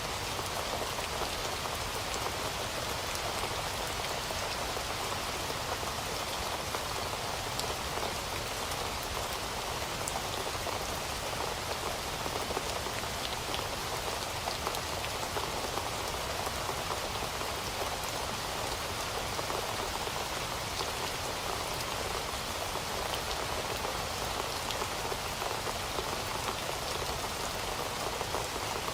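Heavy rain falling steadily, a dense even patter of drops with fine scattered ticks, unchanging throughout.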